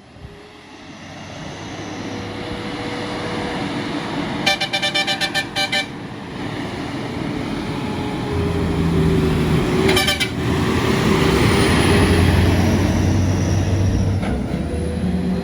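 Heavy trucks driving past, the engine sound building up and a deep engine hum coming in from about eight seconds. A quick string of horn toots sounds about four seconds in, and a single short horn blast near ten seconds.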